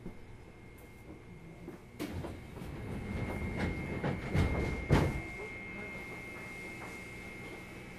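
Interior sound of a JR East 205 series commuter electric train car. It is quiet for about two seconds, then rumbling and clattering build, with several knocks and a sharp thump about five seconds in. A faint steady high tone runs underneath.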